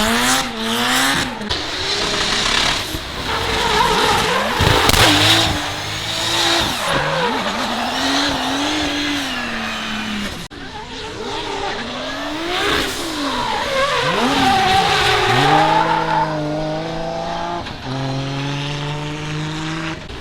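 Drift cars' engines revving hard on a wet track, the pitch rising and falling again and again as the throttle is worked through slides, with a haze of tyre noise. Near the end an engine holds a steady high note.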